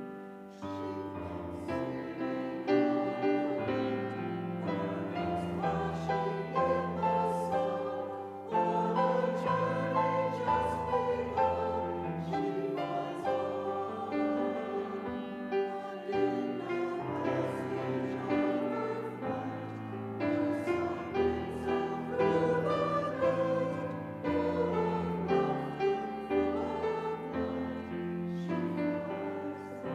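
A hymn sung by a group of voices with piano accompaniment, in slow, sustained notes.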